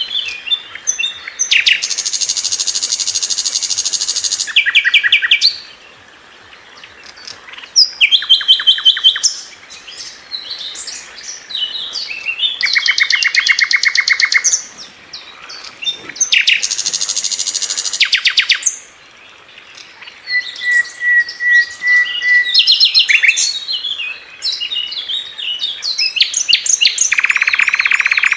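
A sikatan londo flycatcher singing a busy, varied song of sharp chirps and whistles. The chirps are broken by long, very rapid trills of repeated notes, and a lower buzzy trill comes near the end.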